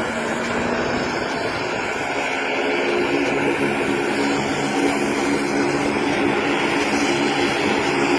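De Havilland Vampire's jet engine running on the ground with a steady high whine over a broad roar. It grows slightly louder about three seconds in, when a lower hum also comes in.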